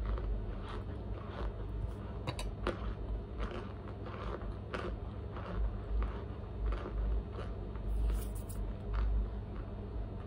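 A person chewing mouthfuls of Argo cornstarch chunks, with crisp crunches coming irregularly, about one or two a second.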